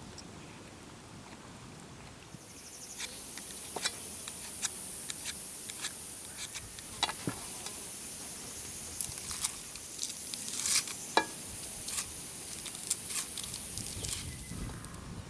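Cooking over a wood fire: a steady high hiss with scattered crackles and pops. It starts suddenly about two seconds in and stops near the end.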